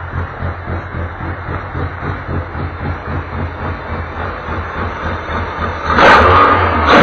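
Touring race car engine idling with a low, pulsing beat, then revved sharply about six seconds in.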